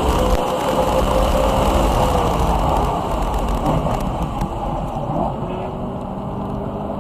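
BMW E92 M3's 4.0-litre V8 running hard on track with tyre and wind noise, easing off somewhat about halfway through.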